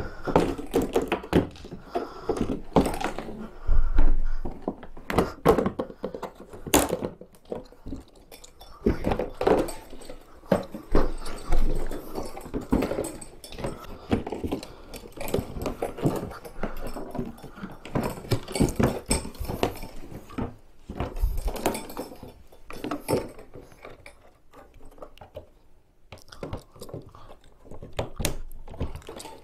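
Irregular knocks, thunks and rustling of stiff plastic folding-kayak parts being handled while the seat is fitted.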